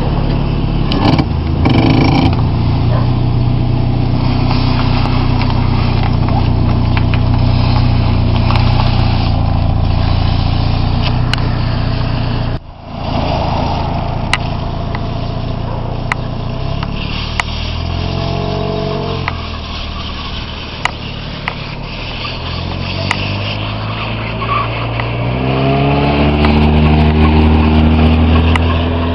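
1991 Mazda Miata's 1.6-litre 16-valve four-cylinder engine running with a steady low hum, then its revs rising and falling twice in the second half as the car is driven. There is a brief dropout near the middle, and small clicks throughout.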